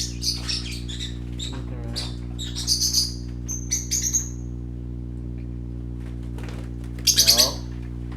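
Small pet parrots chirping in short high calls, several in the first half and a louder, harsher call about seven seconds in, over a steady low hum.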